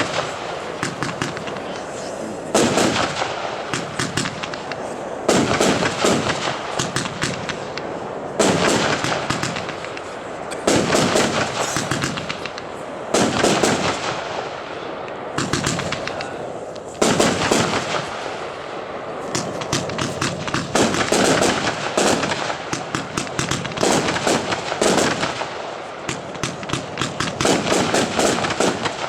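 144-shot, 25 mm firework compound cake firing: dense volleys of rapid bangs. The volleys swell about every two to three seconds, with a steady patter of shots between them.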